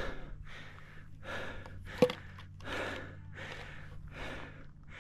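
A person breathing hard, in and out in quick even breaths, out of breath from a hike uphill. A single sharp click about two seconds in.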